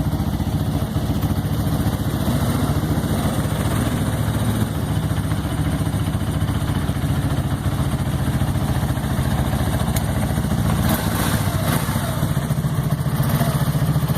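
Single-cylinder ATV engine running at a steady idle, after a cold start out of storage.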